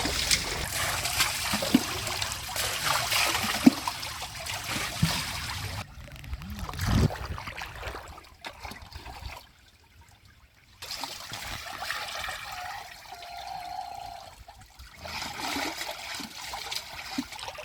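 Water splashing and trickling, busiest over the first several seconds, nearly cutting out for about a second halfway through.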